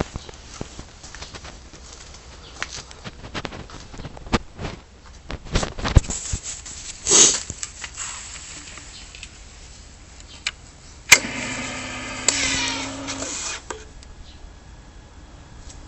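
Handling clicks and knocks, then an electric starter cranking the Ducati 1098S's twin-cylinder engine for about two and a half seconds before it stops abruptly. The level afterwards is no higher than before, so the engine has not caught.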